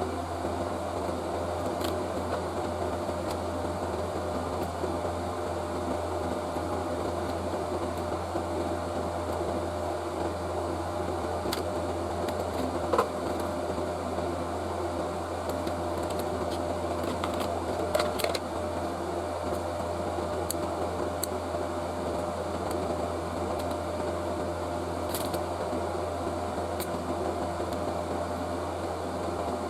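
Steady hum of a fan or small motor running, with a faint whine over it. A few sharp small clicks come near the middle.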